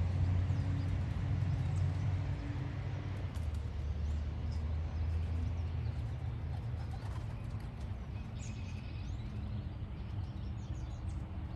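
Young racing pigeons cooing now and then at the loft over a steady low rumble, with a few faint chirps of small birds about two thirds of the way in.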